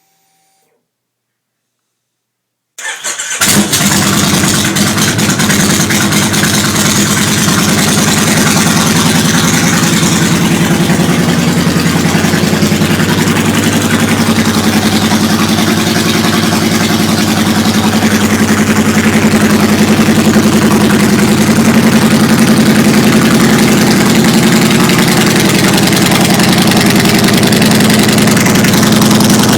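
Kawasaki Mean Streak 1600's V-twin engine through Samson Street Sweeper aftermarket pipes, cranked and started about three seconds in, then running loud and steady at idle. It is running with a freshly fitted Cobra fuel processor meant to cure the backfiring the pipes caused.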